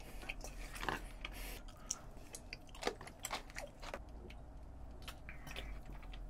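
Close-miked chewing of a mouthful of cold spicy mixed noodles (bibim-myeon): soft, scattered wet mouth clicks. Later come swallowing sounds as he drinks from a can.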